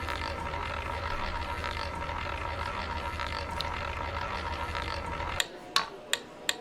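Online roulette game's wheel-spin sound effect: a steady whirring with a few held tones that cuts off about five seconds in, followed by four sharp clicks as the ball drops and settles.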